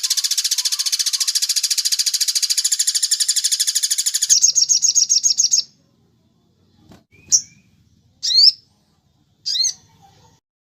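Recorded birdsong for training cage birds: a loud, very rapid high trill that changes to a slightly different pulsed trill about four seconds in and stops about halfway, followed by three short separate sharp calls about a second apart.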